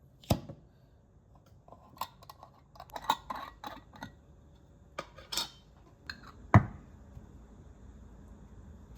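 Household items being handled: scattered knocks, clicks and clinks with some rustling, a thump just after the start and a louder thump about two-thirds of the way through.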